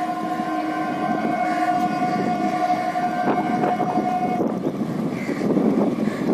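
Local passenger train running, its horn sounding one long steady note that cuts off about four seconds in, over the continuous rumble of the train.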